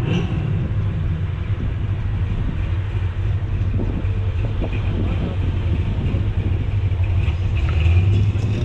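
A car engine running at a steady idle, a constant low rumble that swells slightly near the end.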